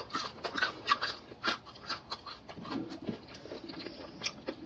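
Crunching of crispy double-fried chicken with a potato-starch batter crust being bitten and chewed close to the microphone: a run of sharp, irregular crackles, several a second.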